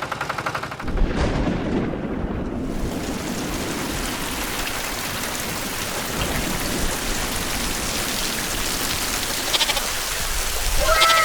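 Steady rain-like hiss of falling water, after a brief rhythmic rattle in the first second; a few falling whistle-like tones sound near the end.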